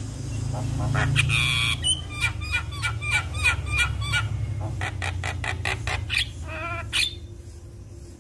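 Javan myna (jalak kebo) singing: a rapid run of harsh squawks, whistled notes and chatter, about a dozen in quick succession, stopping about seven seconds in. A steady low hum runs underneath.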